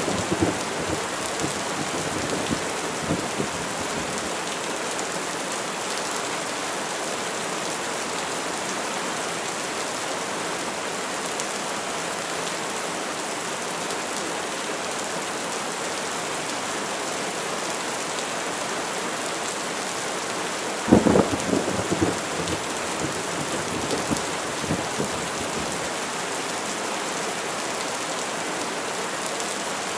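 Steady heavy rain on surfaces throughout. A thunderclap fades out in the first few seconds, and a sharp crack of thunder comes about two-thirds of the way in, followed by a few seconds of crackling rumble.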